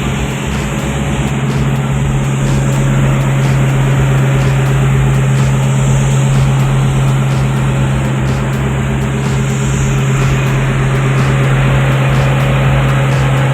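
Toyota 1UZ V8 engine, swapped into a BMW, running steadily at idle with a constant low hum and no change in speed.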